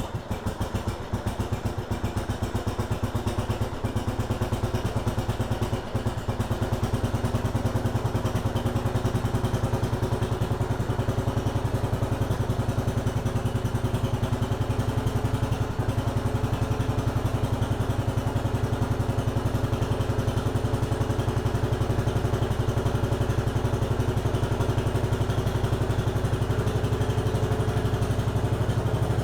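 Briggs & Stratton engine of a 1953 Economy Country Squire garden tractor catching at the start and then running steadily with an even firing beat. The carburettor is running well after the revival.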